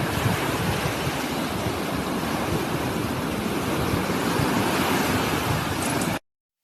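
A steady rushing noise with no tones or voices in it, cutting off abruptly about six seconds in.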